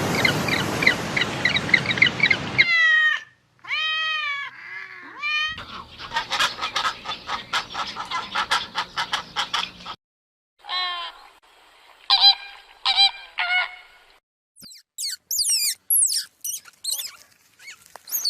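A string of short bird-call clips cut one after another: repeated pitched calls, some curving up and down, then a dense run of quick repeated calls, and quick high chirps near the end.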